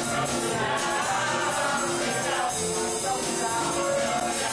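Live pit band playing an up-tempo show tune with a steady beat, with little or no singing over it.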